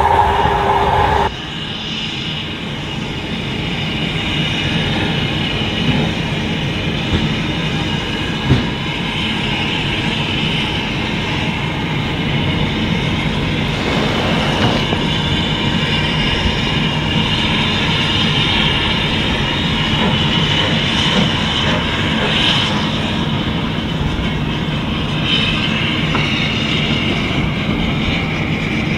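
Preserved steam-hauled train on the move: a steady rumble of wheels on rail with clickety-clack and a faint high wheel squeal. An abrupt change about a second in, where a louder sound with strong tones cuts off.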